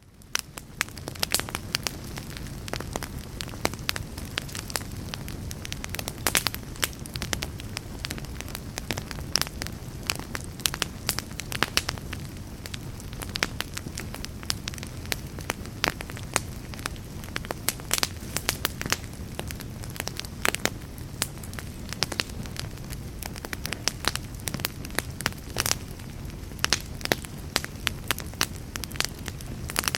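Log fire burning in a fireplace: frequent irregular crackles and pops over a steady low rumble of flames, fading in over the first second.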